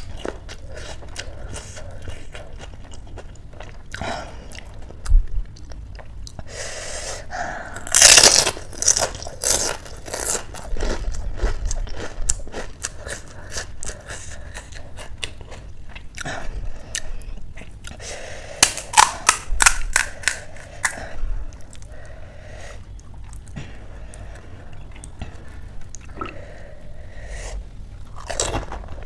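Close-miked chewing of pani puri: crisp hollow puri shells crunching and crackling between the teeth, with two louder bouts of crunching, about eight seconds in and again about nineteen seconds in.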